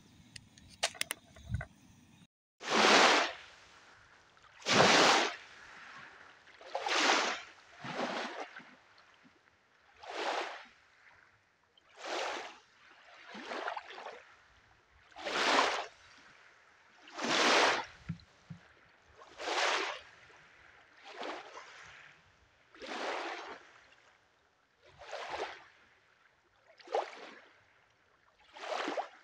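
Canoe paddle strokes in water, a rushing splash of the blade pulling through roughly every two seconds, in a steady rhythm.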